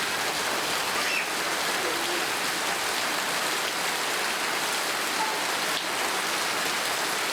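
Steady rain falling and spattering on surfaces, an even hiss without pause.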